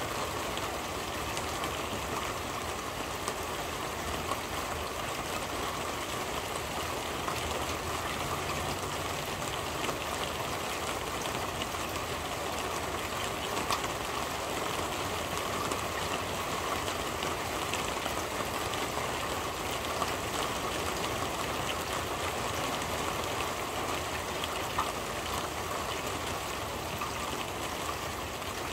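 Steady rain falling on a corrugated roof, heard from underneath: an even patter with now and then a single louder drop.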